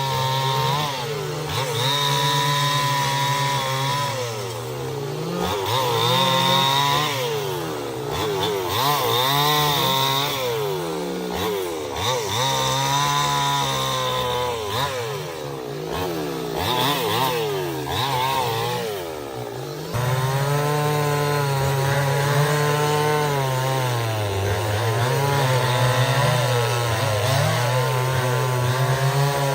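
Chainsaw cutting wood, its engine pitch repeatedly dropping under load and climbing back up as the chain bites and frees.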